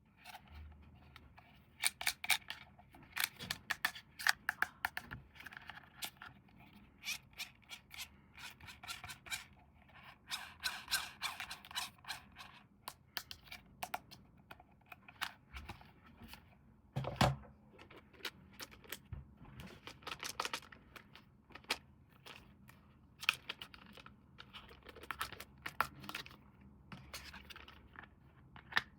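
Packaging being handled and opened by hand: an irregular run of sharp clicks, scrapes and rustles, with one louder knock about two thirds of the way through.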